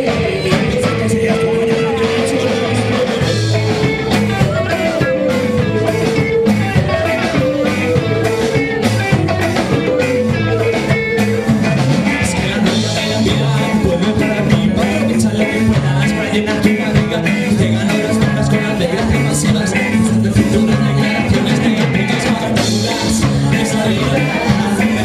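Live band playing an upbeat rock/ska-style song with a steady beat, with a melody line that bends in pitch through roughly the first half.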